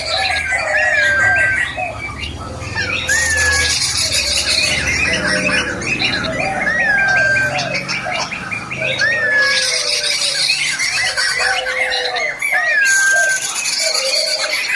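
Masked laughingthrush (poksay mantel) singing a long run of repeated phrases, about one every two seconds: each is a few low warbled notes and a clear whistle that rises and then falls. Dense high chattering comes and goes behind it.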